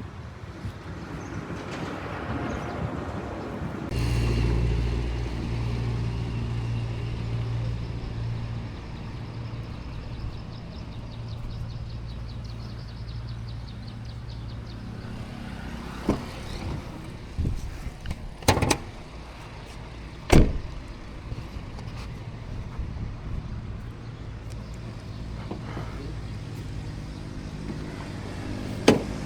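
A car engine comes on suddenly about four seconds in and runs with a steady low hum. Several sharp knocks sound over it in the second half.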